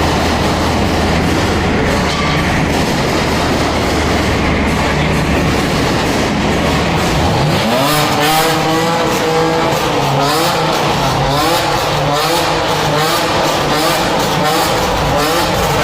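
Car engine rumbling at low revs, then from about halfway through revving up several times, each time with a rising pitch.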